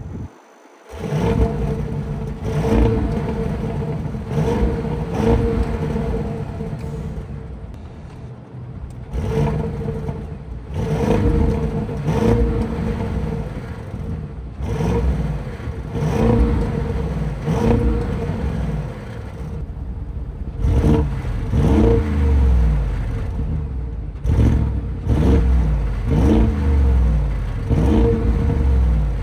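Bentley Bentayga Azure's engine starting about a second in, then revved in repeated short blips, one every couple of seconds, each rising and falling in pitch over a steady hum.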